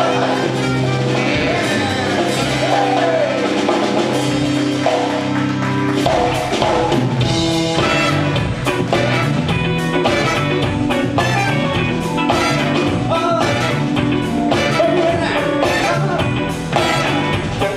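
A live rock band playing: held chords for about six seconds, then the drums come in with a steady beat under guitar and voice.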